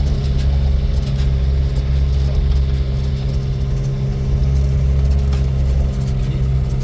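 A car engine running steadily, a constant low drone that holds the same pitch throughout.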